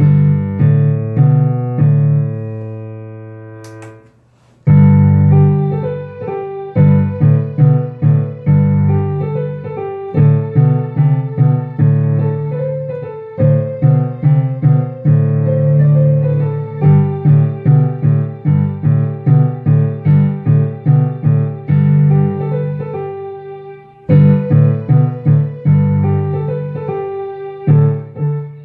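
Piano playing simple pieces: a final chord is held and dies away a few seconds in, then after a brief pause a new piece starts with a loud low chord and goes on at a steady, even beat.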